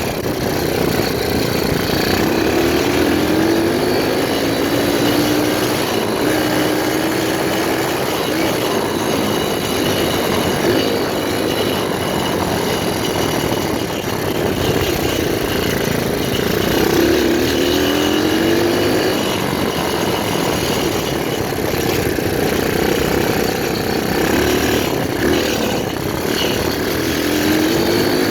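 A 125cc pit bike engine running hard and accelerating. Its note climbs several times, a few seconds in, again a little past halfway, and near the end, over a steady rushing noise.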